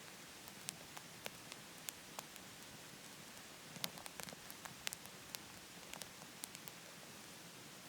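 Wood fire crackling in a wood-burning stove: faint, irregular sharp pops, about one or two a second, over a steady hiss.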